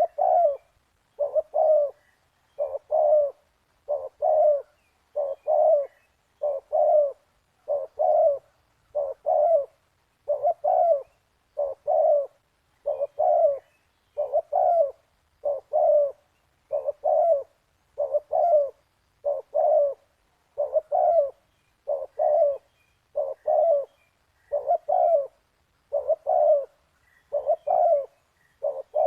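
Spotted dove cooing: a two-part coo repeated steadily, about once every second and a half.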